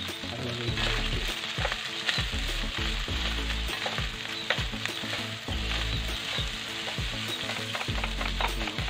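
Garlic fried rice sizzling in hot oil in a pan while being stirred and tossed with a spatula, with frequent short scrapes and clicks of the spatula against the pan.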